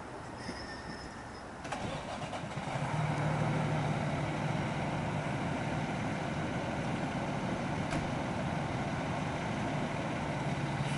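Diesel engine of an E-One fire engine starting up about two seconds in, then running steadily at idle.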